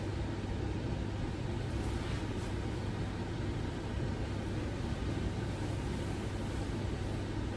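Steady low rumble of a moving vehicle heard from inside, mostly a deep hum.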